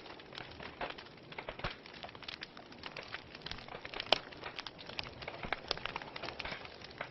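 Wood fire burning in a fireplace, crackling with irregular pops over a soft steady hiss, one sharper pop about four seconds in.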